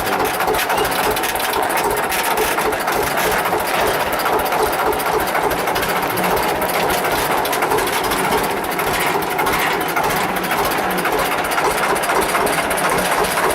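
Eicher 315 tractor's diesel engine running steadily, with a rapid, even firing beat.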